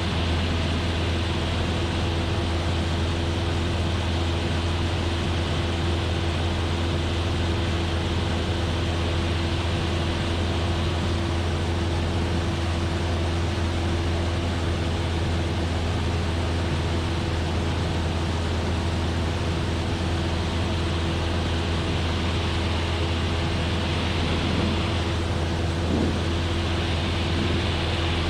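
Cessna 172F's Continental O-300 six-cylinder engine and propeller droning steadily in level cruise, heard from inside the cabin with a deep hum and constant airflow hiss.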